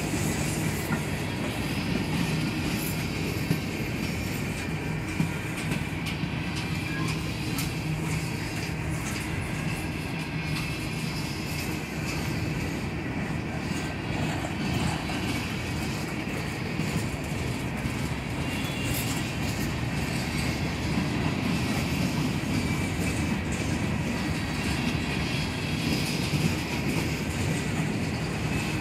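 Freight cars of a slow-moving freight train rolling past: a steady rumble of steel wheels on the rails, with occasional clicks as the wheels cross rail joints.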